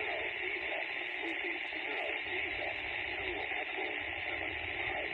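Railroad two-way radio heard through a scanner: a hissy, narrow-band transmission with a garbled voice, keyed up suddenly just before and staying open.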